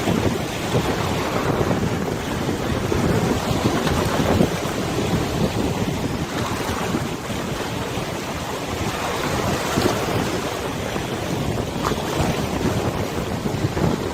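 Wind over a wide river with waves lapping, the wind buffeting the microphone in a steady, gusty rumble.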